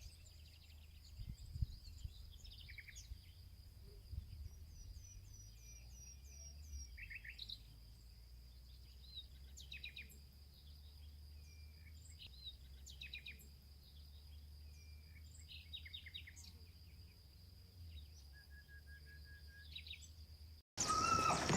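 Birds chirping and trilling over a steady high-pitched tone and a low rumble, which cut off suddenly near the end.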